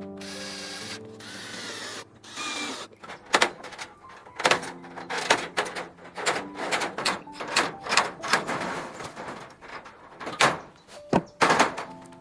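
A power drill runs in three short bursts, then a string of irregular knocks and thunks from hand building work, over soft background music.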